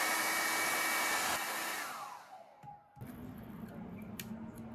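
Handheld hair dryer blowing steadily, then switched off about two seconds in, its motor whine sliding down as it winds down. A fainter steady hum follows.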